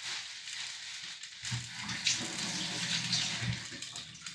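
Pot of water with lemon juice and chicken pieces boiling hard, a steady bubbling hiss; a low hum joins for about two seconds in the middle.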